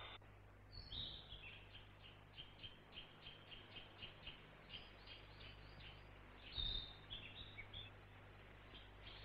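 Faint chirping of small birds: a quick run of short high chirps, about two or three a second, with one louder call a little over two-thirds of the way through.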